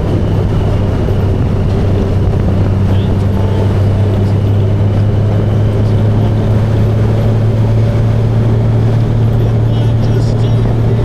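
Motorcycle engine running at a steady cruise with wind and road noise, a constant low drone.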